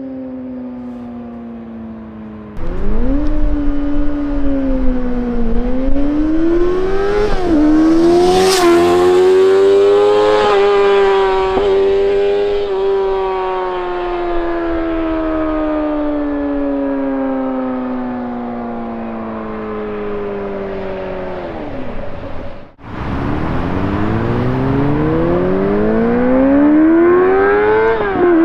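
2003 Yamaha YZF-R6's 600cc four-cylinder engine breathing through an Akrapovic exhaust with the dB killer removed. It gets suddenly louder a couple of seconds in and climbs in pitch, with short steps up and down, then falls slowly in pitch for a long stretch. Near the end it cuts out briefly and climbs steeply again.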